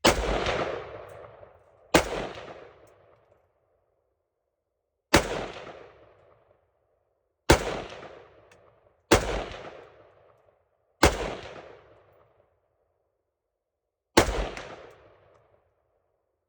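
Seven rifle shots fired one at a time at an uneven pace, one to three seconds apart. Each crack trails off over about a second and a half.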